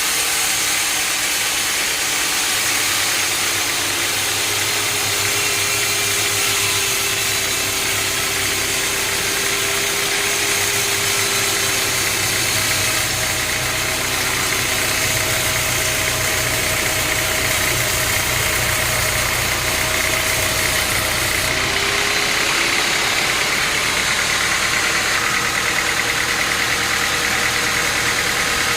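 An engine running steadily under a continuous mechanical hum and hiss, with the sound changing a little about 21 seconds in.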